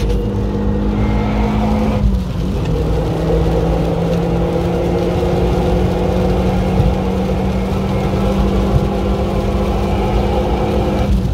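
Renault Mégane's engine heard from inside the cabin, pulling steadily in gear. Its note breaks off and comes back lower about two seconds in, a gear change, and breaks again near the end. A steady hiss of tyres on the rain-soaked track lies under it.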